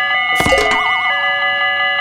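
Several electronic railroad-crossing warning tones sounding at once, some alternating between two pitches about once a second. About half a second in, a falling swoop and a wobbling 'boing' tone cut across them.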